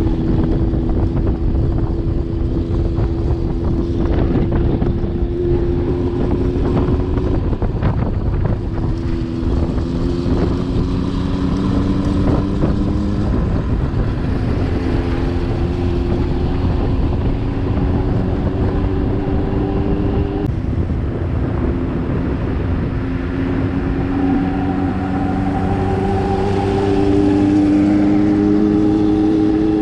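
A motor vehicle's engine running on the move, its pitch rising and falling in steps as it speeds up and changes gear, over a steady low rumble.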